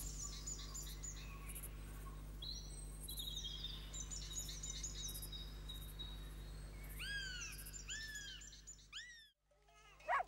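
Faint birdsong: several small birds chirping and trilling, with a run of repeated rising-and-falling calls about two-thirds of the way through, over a low steady hum. It cuts off suddenly about a second before the end.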